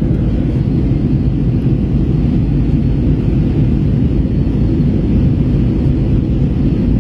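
Steady low rumble of an Airbus A321 airliner in flight, heard from inside the cabin: engine and airflow noise with no distinct events.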